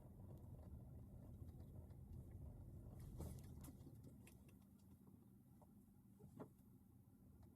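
Near silence: a faint low rumble, with a few faint clicks, about three seconds in and again about six and a half seconds in.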